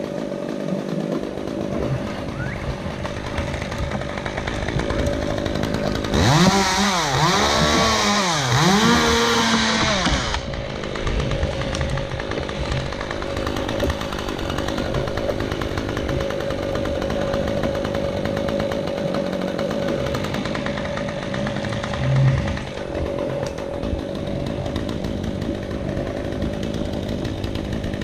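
Chainsaw running steadily, revved up and down several times a few seconds in, then settling back to a steady run.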